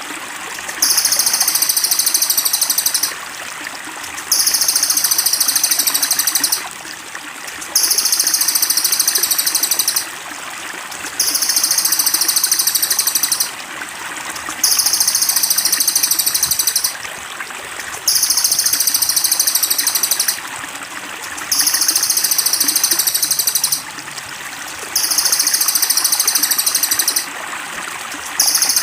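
A small songbird's high, rapid trilling song phrase, each about two and a half seconds long, repeated at even intervals about every three and a half seconds, over steady trickling water.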